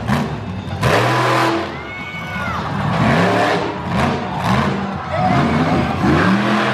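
Monster truck engine revving in repeated bursts, the pitch rising and falling again and again.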